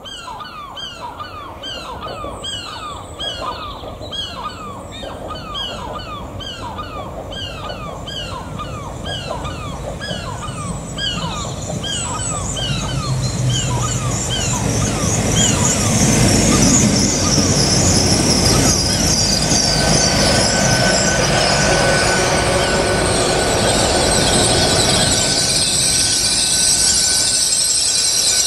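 Great Western Railway Class 802 bi-mode train running through the station. Its engines and wheels grow louder from about twelve seconds in and stay loud, with a steady high whine in the last few seconds. Before the train builds up there is a quick series of short falling chirps, about two a second.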